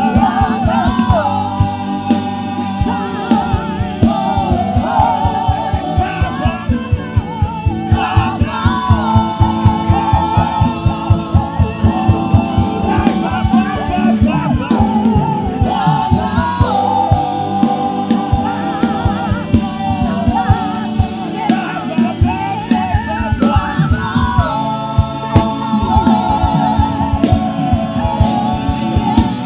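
Gospel worship music: singers and choir holding wavering sung lines over a band with a steady, fast drum beat.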